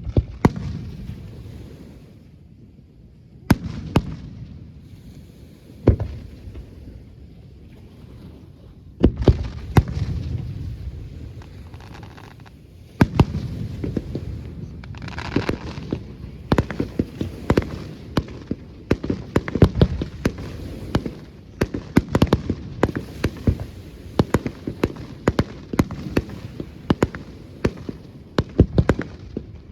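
Aerial fireworks display: single shell bursts every few seconds, each a sharp bang with a rumbling tail, then from about 13 seconds in a dense, continuous run of rapid bangs and crackles.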